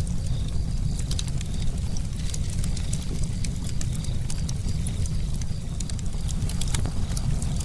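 Campfire crackling: frequent sharp pops and snaps of burning wood, irregularly spaced, over a steady low rumble of the flames.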